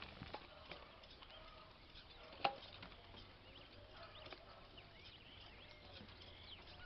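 Faint outdoor background with scattered light clicks and knocks, and one sharper knock about two and a half seconds in.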